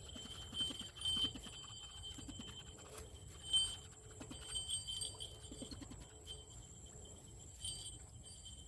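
Birds calling: short, low, pulsed calls repeated at irregular intervals, over a faint steady high-pitched ringing.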